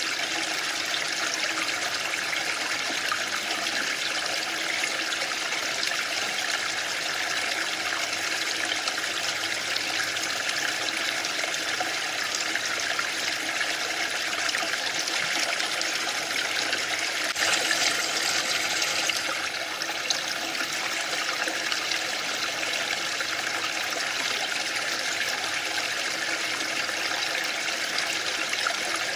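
Waterfall: a steady rush of falling water. A little past the middle it briefly gets a little louder and hissier for about two seconds.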